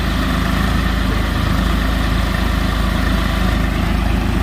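Heavy diesel engine running steadily at an even speed, its sound strongest in the low end.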